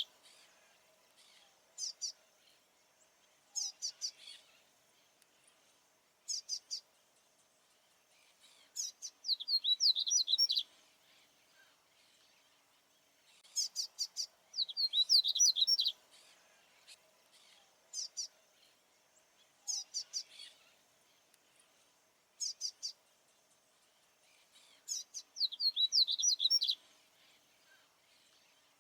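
Male papa-capim baianinho seedeater singing, a songbird repeating bright, quick high-pitched song phrases every couple of seconds, some short and some longer runs of rapid notes. A faint steady hum lies beneath.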